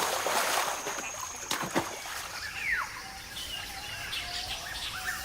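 Water splashing at the start, with two smaller splashes about a second and a half in, as macaques go into a river. Birds call after that, first with one falling whistle and then with scattered chirps.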